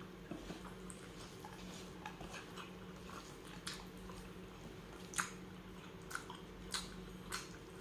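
Close-miked chewing of spicy tuna sisig, with wet mouth smacks and several sharp clicks in the second half.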